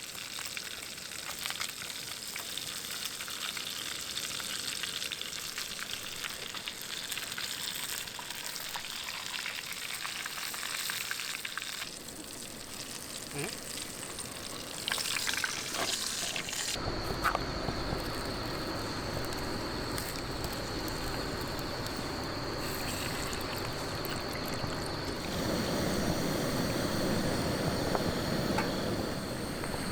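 Food sizzling as it fries in a mess tin, a steady crackling hiss for about the first twelve seconds. Just past halfway the sound changes suddenly to a fuller, lower steady noise with a thin high tone over it.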